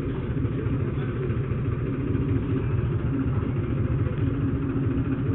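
Tractor's diesel engine running steadily at an even pace.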